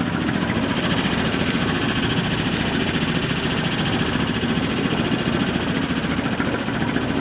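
A Cape Dory 28 sailboat's inboard engine running steadily under way, with a fast, even pulse.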